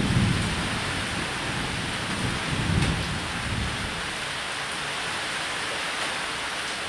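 Steady heavy rain on a roof with low rolls of thunder, one rumble at the start and another about two and a half seconds in.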